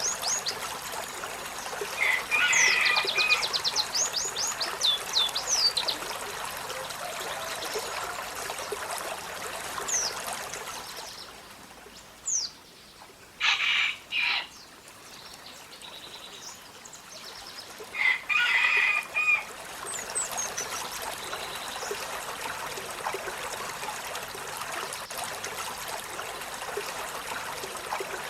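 Olive-backed sunbird calling: a fast trill of thin, high down-slurred notes a couple of seconds in, scattered sharp chirps, and several short, loud calls around the middle, over a steady background hiss.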